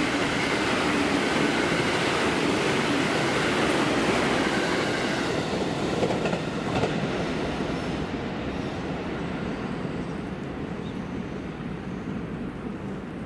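A train passing on the tracks. Its wheel and running noise is loud for about the first five seconds, then slowly fades away as it moves off.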